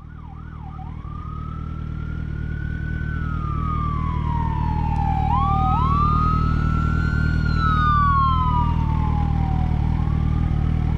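Emergency vehicle siren going from a fast yelp into a slow rising-and-falling wail, with a second siren wailing alongside it from about five seconds in, over a steady low engine rumble. The sound fades in over the first few seconds.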